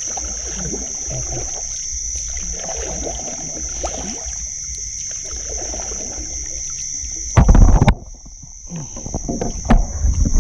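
Water sloshing and splashing as someone wades or moves a small boat through shallow water, over a steady high insect chorus. About seven seconds in there is a brief loud rush, followed by a short lull and then uneven splashing.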